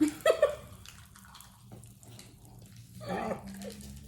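Short wordless vocal exclamations from people: a couple of brief ones at the start and another about three seconds in, with quieter noise between.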